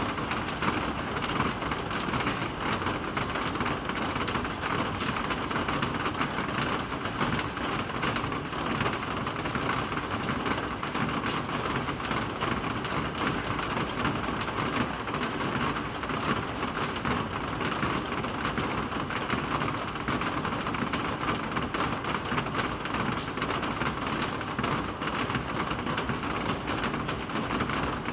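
Steady rain falling, a dense, even patter of drops on surfaces that neither swells nor fades.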